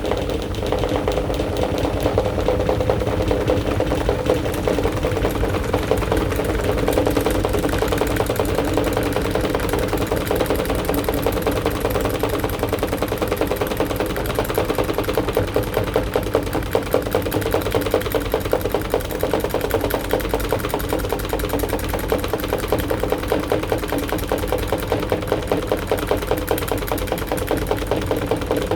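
AQUA AQW-DX12M drum washing machine running, picked up through its top panel: a steady motor hum with a fast, continuous rattle. The level pulses briefly toward the end.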